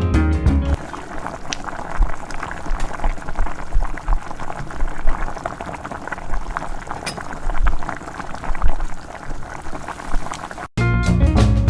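Hot oil sizzling and crackling in a pan, with many small sharp pops.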